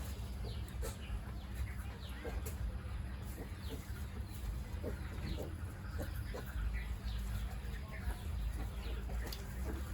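Farm animals making many short, squeaky calls that fall in pitch, scattered irregularly, over a steady low hum.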